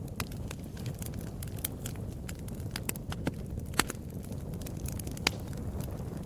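Wood fire in a fireplace crackling: scattered sharp pops and snaps over a low rumble of the flames, the loudest pops about four and five seconds in.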